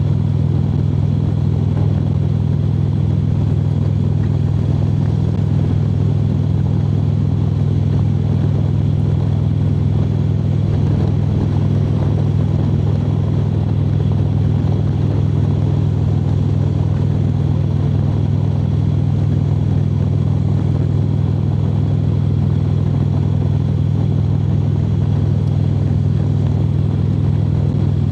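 Harley-Davidson V-twin motorcycle cruising at steady highway speed: an even, low engine drone mixed with road and wind noise, with no change in speed.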